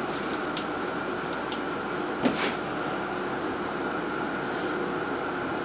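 Steady background hum with a few light clicks and one short knock about two seconds in, like something being handled or set down.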